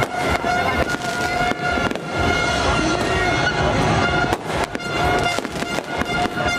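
Fireworks and firecrackers going off in a rapid run of sharp bangs and crackles, over a steady held horn-like tone.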